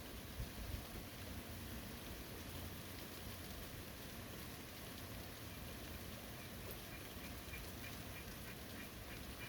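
Steady rain falling in a forest. Near the end, an animal gives a run of short, high, repeated calls, about four a second.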